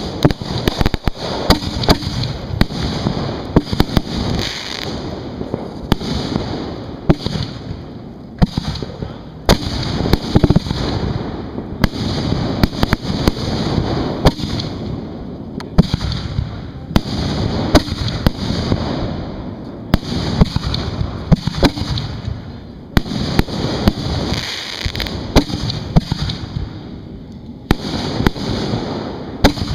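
Professional fireworks display heard from right beside the mortar racks: a dense, continuous barrage of sharp reports from shells launching and bursting overhead, several a second at its thickest.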